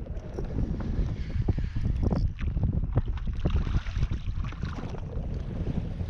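Wind rumbling on the microphone, with irregular short knocks and splashes of water while a hooked fish is being fought from a wading position.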